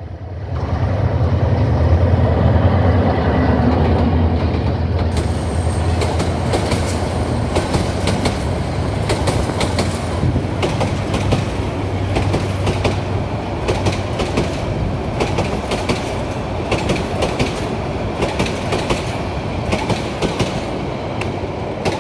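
Diesel-hauled passenger train passing close by. A deep locomotive engine rumble fills the first few seconds, then the coaches' wheels clatter over the rail joints in a long run of irregular clicks.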